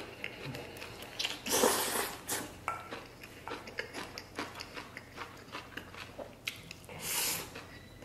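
A person biting and chewing mouthfuls of chili stir-fried octopus with rice, with many small wet clicks and crackles of chewing throughout. There are two louder bursts of mouth noise, one about a second and a half in and one near the end.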